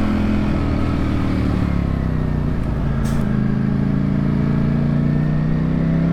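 Ducati Streetfighter V4's V4 engine under way: its note falls as the throttle is rolled off, then after a short click about three seconds in it pulls again and rises steadily in pitch.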